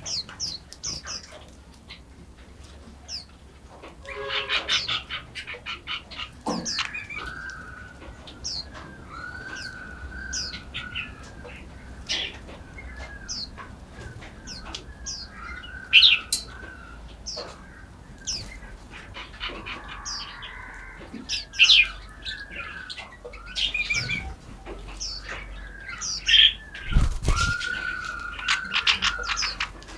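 Several songbirds chirping and calling together, with many short high chirps overlapping repeated mid-pitched warbled phrases and a quick rattling call about four seconds in. A brief low thump comes about 27 seconds in.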